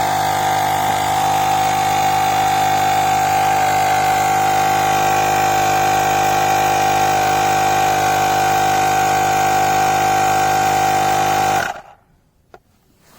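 Portable electric tyre inflator's small compressor running with a steady buzzing hum, then cutting off suddenly near the end as it stops automatically on reaching the set pressure.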